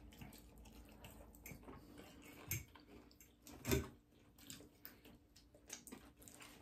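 Faint eating sounds: soft chewing and wet mouth clicks of people eating pasta off forks, with a louder click about two and a half seconds in and a stronger thump nearly four seconds in.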